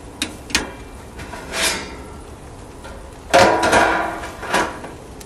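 Grill dome lid clanking and rattling as it is set back over the grill: a couple of sharp clicks, then a loud ringing metal clatter about three seconds in and a last knock shortly after.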